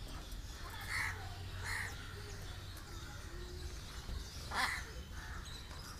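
Harsh bird calls, three short squawks about a second in, just under two seconds in, and the loudest about four and a half seconds in, over a low background rumble.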